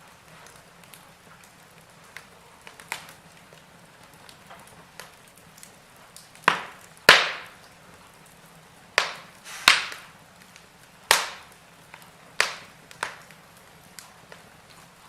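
Wood fire burning in a fireplace: a low hiss with sharp crackles and pops, scattered at first and then louder and more frequent about halfway through.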